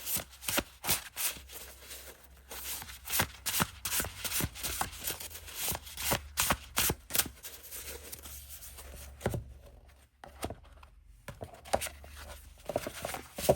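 A deck of thin cardboard oracle cards being shuffled by hand: a run of irregular light card flicks and slaps, with a brief pause about ten seconds in.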